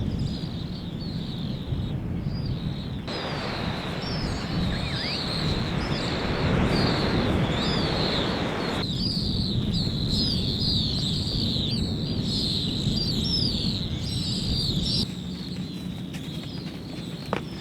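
Small birds chirping over and over in quick, high calls, several a second, over a steady low rushing noise that swells into a louder hiss for several seconds in the middle.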